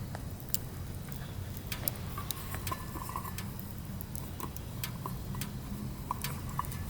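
Burning firewood crackling, with irregular sharp pops and clicks over a steady low rumble of the fire, and a few brief thin whistles in between.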